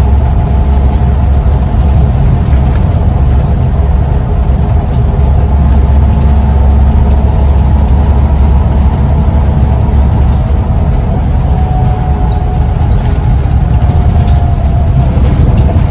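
Scania Omnicity single-deck bus's diesel engine and drivetrain running under way, a steady loud low drone with a whine above it that shifts slightly in pitch near the end.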